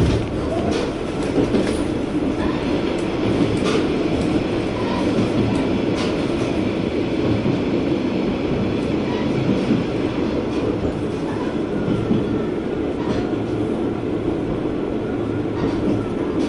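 Inside a KiHa 120 diesel railcar under way: a steady rumble of the engine and wheels on the rails, with scattered clicks from rail joints.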